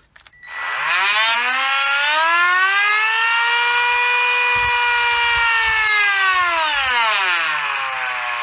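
Repaired Milwaukee cordless rotary tool running: the motor whine climbs as the speed control is turned up, holds steady at top speed, then falls as it is wound back down near the end. The speed control works after the repair.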